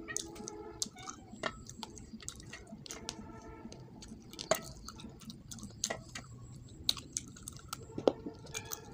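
Close-up wet chewing and lip-smacking of a person eating rice and fish head by hand, with irregular sharp mouth smacks and clicks several times a second. The loudest smacks come about halfway through and near the end.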